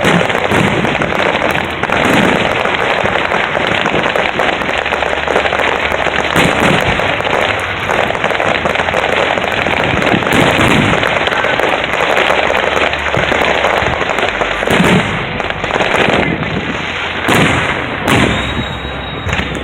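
Aerial fireworks display: a dense, continuous crackle of bursting shells, with deeper single bursts standing out every few seconds.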